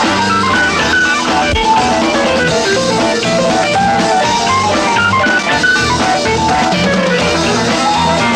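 Live progressive rock band playing an instrumental passage: fast melodic lines over electric guitar, bass and a steady drum kit beat.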